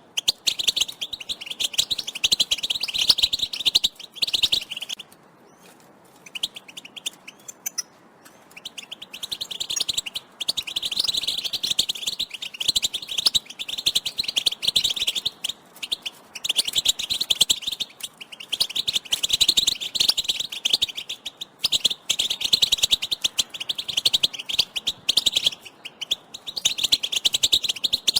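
European goldfinches chattering in rapid, twittering 'batbata' calls, several birds at once: excited contact calls of hens, of the kind used to stir males into song. The calling thins out to a few scattered notes about five seconds in, then picks up again densely after about four seconds.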